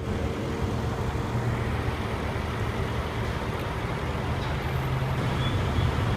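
Steady low rumble of the ML63 AMG's 5.5-litre twin-turbo V8 idling.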